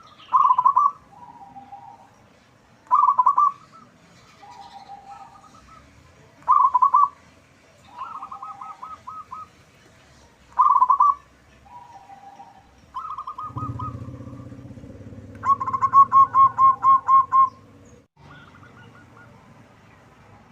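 Zebra doves cooing: a loud rattling coo phrase about every three to four seconds, with quieter, lower coos in between, and near the end a longer run of about nine quick notes. A low rumble sits under the calls for a few seconds in the second half.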